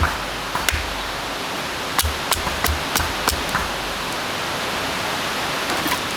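Steady hiss of rainfall with scattered sharp ticks of drops striking a nearby surface.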